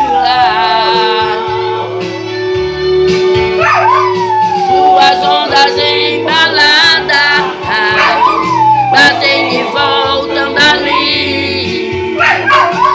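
A dog howling along to a recorded gospel hymn: several long howls, each jumping up and then sliding slowly down in pitch, over the music.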